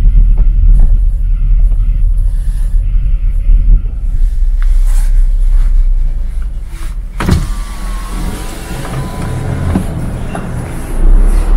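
Strong, gusty wind buffeting the microphone as a loud, uneven low rumble. About seven seconds in there is a sharp knock, followed by a few seconds of a thin whining tone under the wind.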